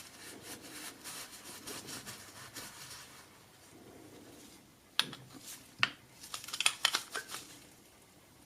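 Hands working on small tool parts. First a few seconds of scraping and rubbing, then a sharp click about five seconds in, another just before six seconds, and a quick run of clicks and taps.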